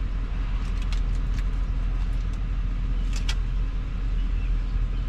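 Steady low rumble of a vehicle's engine running, with a few faint clicks about one and three seconds in.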